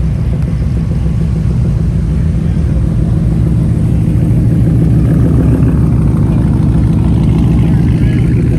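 A car engine rumbling at low speed as the car rolls in, growing slightly louder over the last few seconds.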